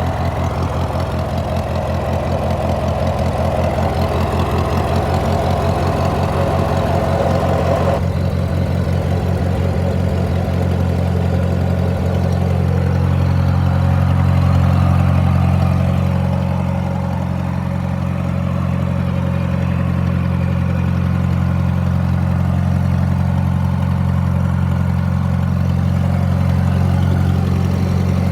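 1950 Massey-Harris tractor engine idling steadily just after a cold start, its firing pulses distinct. A higher-pitched part of the sound cuts off about eight seconds in, leaving a smoother, steady run.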